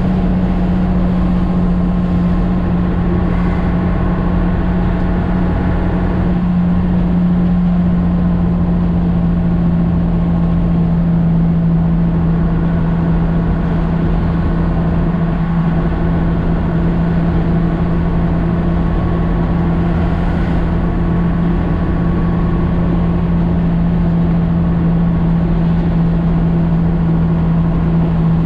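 Diesel engine of a Nissan CK31L concrete pump truck heard from inside the cab, a steady drone while cruising, its pitch easing slightly lower about halfway through.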